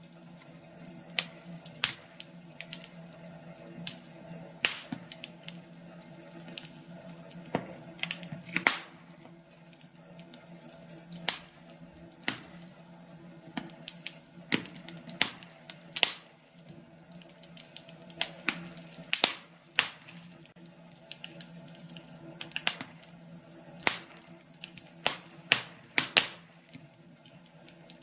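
Burning wood fire crackling, with irregular sharp pops and snaps, sometimes several close together, over a steady low background.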